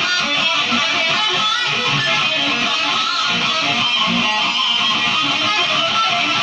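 Electric guitar played loudly in an unbroken run of many quick notes.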